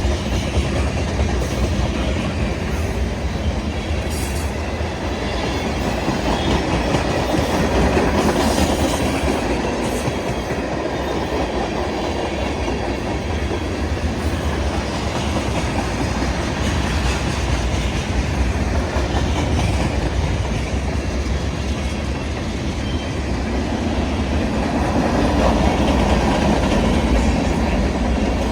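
Freight train cars rolling past in a steady rumble, with wheels clacking over the rail joints. The sound swells twice, about a third of the way in and near the end.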